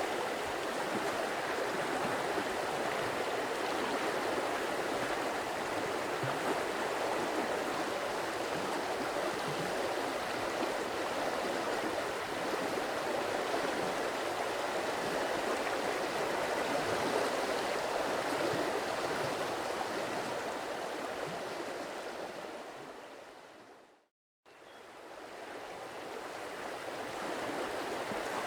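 Stream water flowing steadily in an even rush. About three-quarters of the way through it fades out to a brief moment of silence, then fades back in, as at a loop join.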